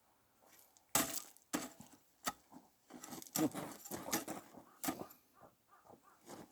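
A few sharp, irregular knocks and clacks of wood on wood as firewood pieces are handled and set up for splitting.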